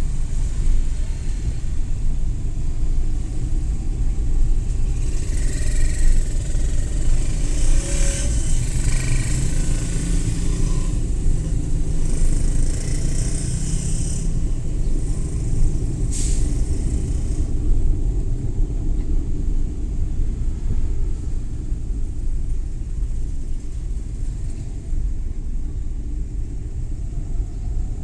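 Suzuki Every Wagon (DA64W) kei van on the move: a steady low rumble of engine and road noise. A stretch of higher hiss runs from about five to fourteen seconds in, with a short whoosh about two seconds later.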